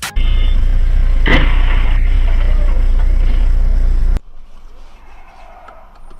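Loud, steady vehicle and road rumble, as a dashcam records it, with a sharp bang about a second in. It cuts off abruptly about four seconds in, leaving a much quieter hiss of traffic with a few faint clicks.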